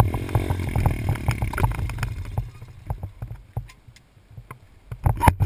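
Dirt bike engine running, its pitch falling, with rattles and knocks from the bike; after about two seconds the engine sound fades away, leaving scattered knocks, and a couple of loud knocks come near the end.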